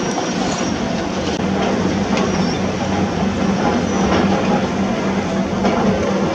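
Heavy construction machinery at work: a diesel engine running steadily, with scattered metallic clanks and faint short high squeaks.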